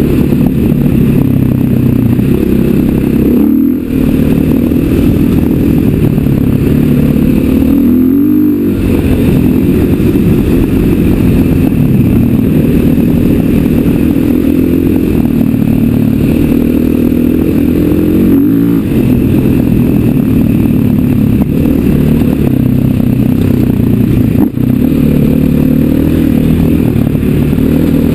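KTM 500 EXC dirt bike's single-cylinder four-stroke engine running under way, its pitch rising and falling with the throttle and gear changes, with a few brief drops in engine sound along the way.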